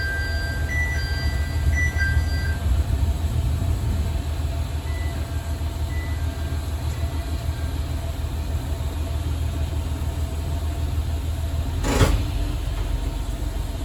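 Diesel railcar running along the line, heard from beside the cab as a steady low rumble. A short run of two-tone electronic beeping sounds near the start, and there is a single sharp knock about twelve seconds in.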